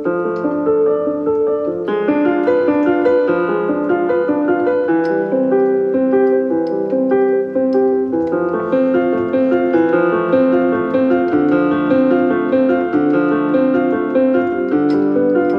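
Background piano music: a steady run of notes with no voice over it.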